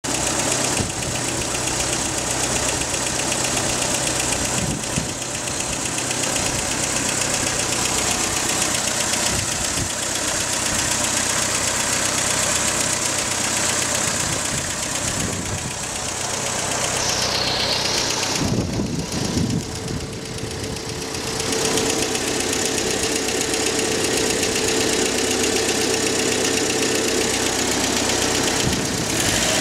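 Opel Manta A 1.6S's 1.6-litre four-cylinder engine running steadily. Its sound dips and changes briefly about two-thirds of the way through, then settles again.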